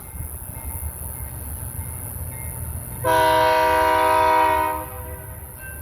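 Freight locomotive air horn sounding one long chord about three seconds in, held for about two seconds, over the low rumble of the train.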